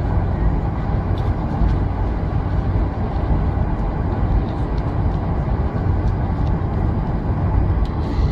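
Steady low rumble of a Boeing 747's engines and airflow heard inside the passenger cabin.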